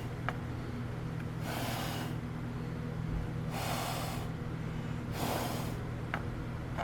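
Three short puffs of breath close by, about two seconds apart, over a steady low hum, with a faint click or two.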